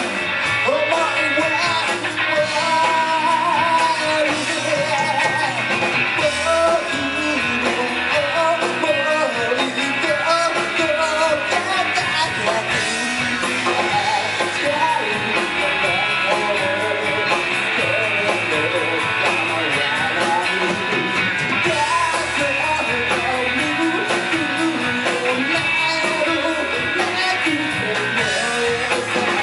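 Live rock band playing: electric guitars and drums with a vocalist singing.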